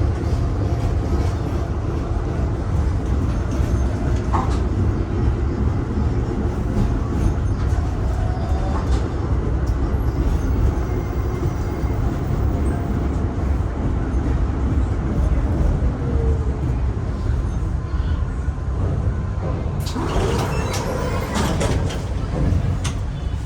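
Tram running along its rails: a steady low rumble, with a couple of seconds of rattling clicks near the end.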